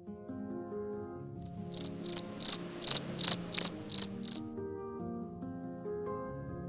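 A cricket chirping: about nine short, evenly spaced chirps in three seconds, over soft background music with held notes.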